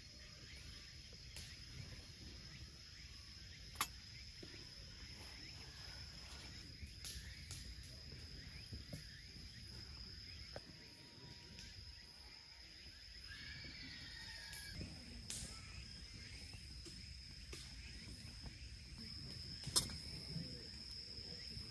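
An insect keeps up one steady, high-pitched trill over faint outdoor background noise, with a few sharp clicks, the clearest about four seconds in and near the end.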